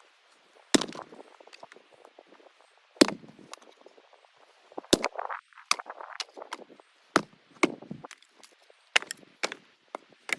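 Axe chopping firewood: sharp strikes about every two seconds, with lighter knocks between.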